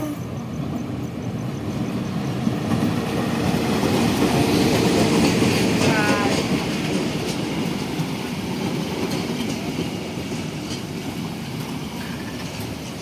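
Train running along the track, a steady loud rumble that swells about four to six seconds in and then slowly eases.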